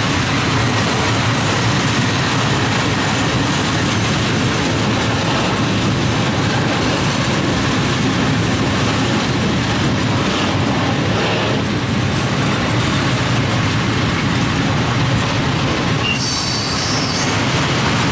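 Freight train of loaded open coal wagons rolling past: a steady loud rumble of steel wheels on the rails, with a brief high squeal near the end.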